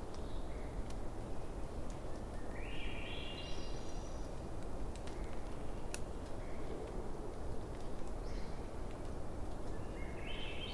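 Bonfire crackling with scattered sharp pops over a steady low rush. A bird gives a call that climbs in steps, about two and a half seconds in and again near the end, with a few fainter short calls between.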